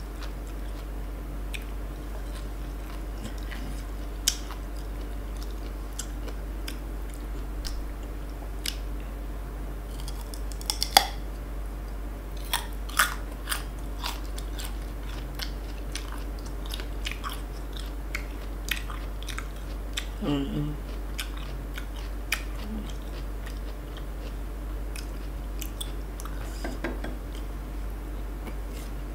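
Crunching and chewing of crisp young ambarella fruit, close to the microphone: sharp, crisp bites scattered through, with a few louder crunches near the middle.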